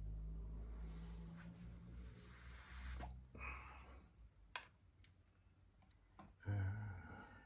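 Cleaning a lawn mower carburetor: a hiss of spray lasting about a second and a half, with light clicks and knocks of the part being handled. A brief louder rattle comes near the end.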